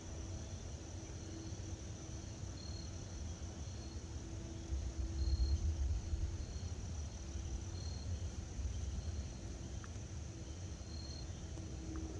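Insects, likely crickets, trilling steadily, with short high chirps repeating every second or so, over a low rumble that swells briefly about five seconds in.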